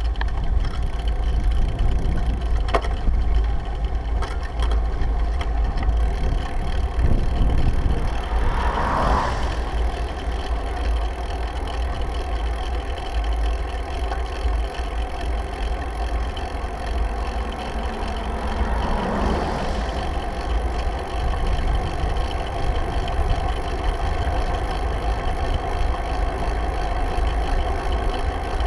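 Steady low wind rumble on the microphone of a bike-mounted action camera during a ride, with two brief swells of louder noise about nine and nineteen seconds in.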